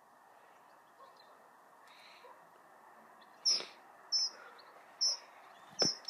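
A small bird chirping: short, high, falling chirps, one every second or so, starting about halfway through over a faint steady hiss.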